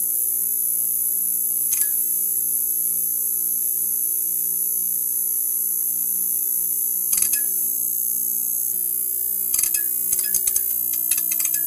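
Neon sign buzzing: a steady electrical hum under a high hiss, broken by sharp crackling clicks, once about two seconds in, again about seven seconds in, and in a quick flurry near the end.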